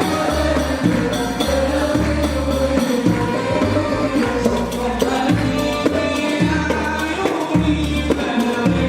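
A choir singing Arabic songs with its band, over a bass line moving in short held notes.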